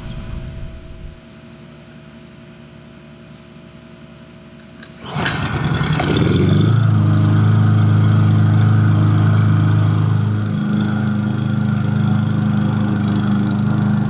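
Harbor Freight Predator 173cc single-cylinder OHV engine on a walk-behind mower starting up about five seconds in, revving up over a second or so and then running steadily and loudly as the mower cuts grass. Its note shifts slightly about ten seconds in.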